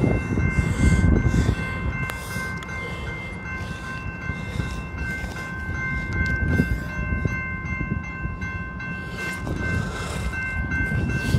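A train rumbling on the tracks at a railroad grade crossing, loudest in the first second or so and then dying down. Steady high-pitched ringing tones sound throughout.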